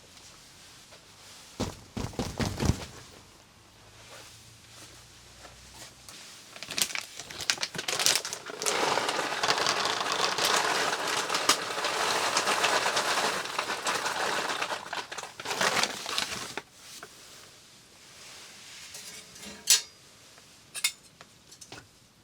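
Cookware and utensils being handled: a cluster of knocks and clinks a couple of seconds in, then about eight seconds of dense rushing noise, and a few sharp clinks near the end.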